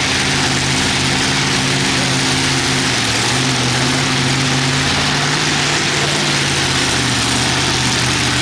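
Pulling tractor's engine running loud at high, fairly steady revs, with a dense rasp over the engine note, as in a pull down the track.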